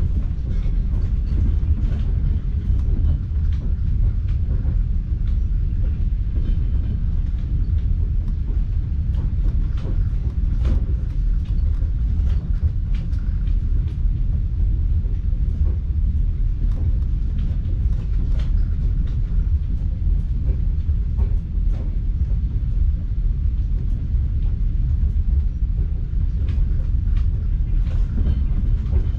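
Passenger train running at speed, heard from inside the carriage: a steady low rumble from the wheels on the track, with scattered light clicks and knocks.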